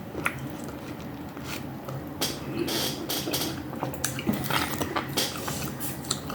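A run of small irregular clicks, taps and short rustles from kitchen items being handled, likely while getting coffee ready.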